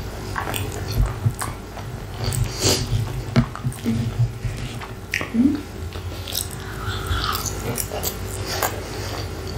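Close-miked chewing and wet mouth sounds of someone eating soft, cheese-topped hot chips, with scattered clicks of a metal fork picking at the chips.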